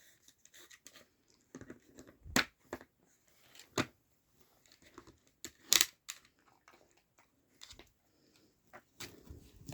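Scattered clicks and knocks of a Nina Ottosson plastic treat puzzle as a dog noses and paws at its pieces, the sharpest knocks about two and a half, four and six seconds in.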